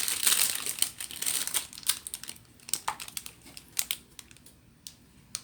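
Plastic snack wrapper crinkling as it is handled, densest in the first second and a half, then in scattered sharp crackles.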